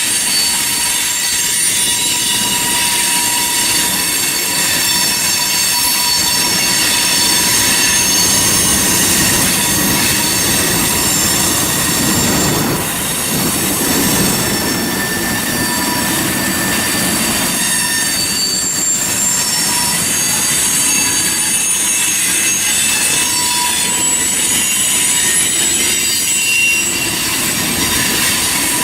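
Freight cars of a long train rolling through a curve, their wheels squealing steadily in several high pitches that come and go over a constant rumble.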